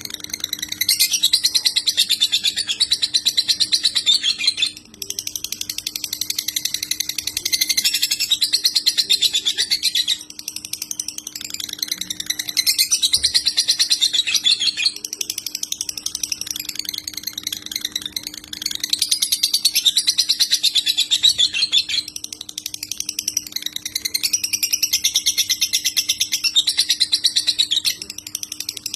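Lobert bird singing in the rapid, scratchy 'konslet' style: long phrases of very fast chattering trills, each a few seconds long, separated by short pauses, over a faint steady low hum.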